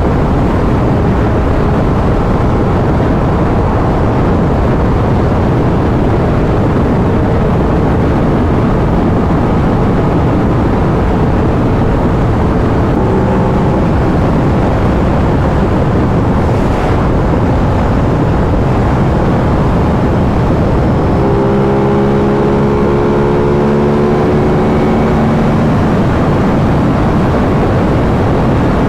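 2023 Aprilia RS 660's parallel-twin engine with its stock exhaust, cruising at highway speed under heavy wind rush on the microphone. The engine note shifts slightly in pitch about halfway through and again from about two-thirds in.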